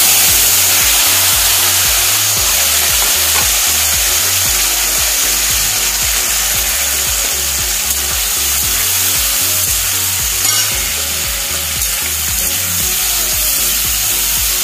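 Sliced mushrooms frying in hot oil in an iron kadhai: a loud, steady sizzle that starts suddenly as they hit the smoking oil, with a spatula now and then turning them against the pan.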